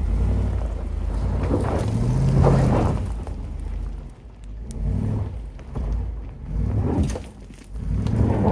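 Holden Adventra V8 wagon's engine revving in repeated surges as it climbs a loose, rocky track, with its wheels spinning on the gravel. The older V8 traction control is slow to brake the slipping wheels, so the car struggles for grip.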